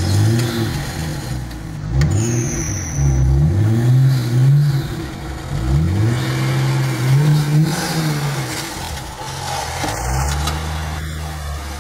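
A car engine revved over and over, its pitch rising and falling in quick swells, then settling to steadier running for the last few seconds.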